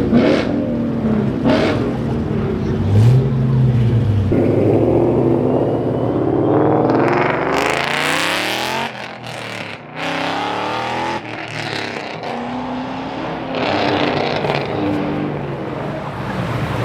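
Car engines running and revving, with one car blipping its throttle about three seconds in and another accelerating hard past, its pitch climbing and sweeping away, around the middle.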